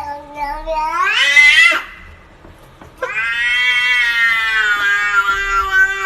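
Cat giving two long, drawn-out meows. The first rises in pitch and breaks off; after a short pause the second is held fairly steady for about three seconds and dips at the end.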